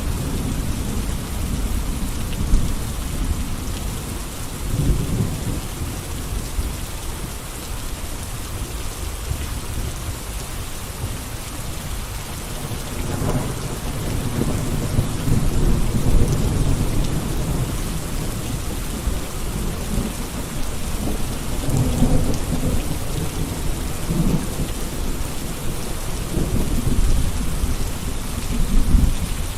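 Steady rain falling, an even hiss with a deep low rumble underneath that swells and fades every few seconds.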